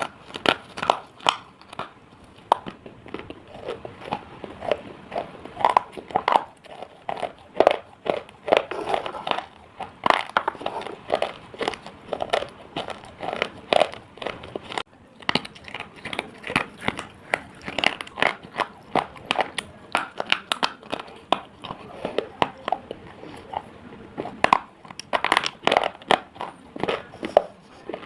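Pieces of slate being bitten and chewed up close: a rapid, irregular run of sharp, gritty crunches, several a second, with a short pause about halfway through.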